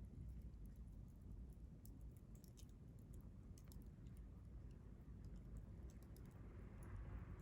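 Wood fire crackling faintly: scattered small pops and snaps over a low steady rumble, with a soft hiss swelling near the end.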